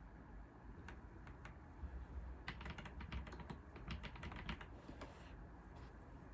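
Typing on a computer keyboard: a few separate keystrokes, then a quick run of keystrokes lasting about two seconds in the middle, then a pause.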